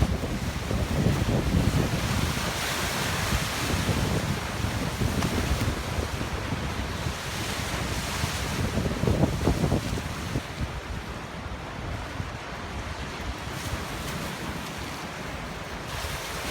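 Storm waves surging and breaking on a rocky shore in a strong wind, with gusts buffeting the microphone as a heavy low rumble. The surf hiss swells and falls, easing somewhat after about ten seconds.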